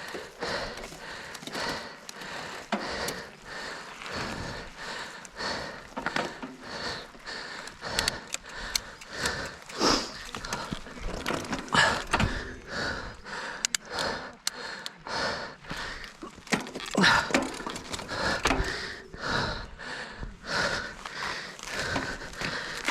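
A mountain biker breathing hard, panting in quick regular breaths, with occasional sharp knocks.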